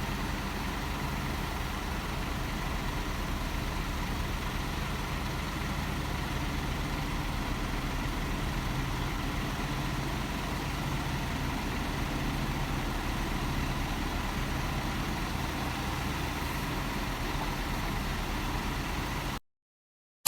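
Heavy diesel engine idling steadily, then cutting off suddenly near the end.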